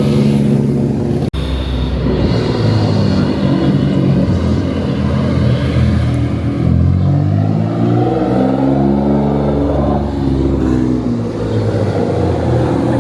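Car engines running and revving as cars roll past, their pitch rising and falling in the middle. A brief break in the sound comes about a second in.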